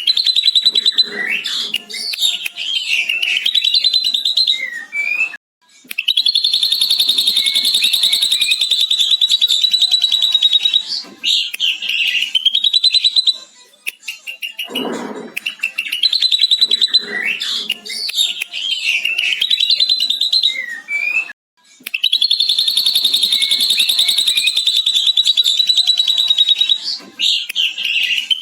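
Ashy drongo singing with a mimicked lovebird chatter ("ngekek panjang"): long runs of rapid, high chattering broken by shorter varied whistled phrases. The same sequence repeats about every 16 seconds.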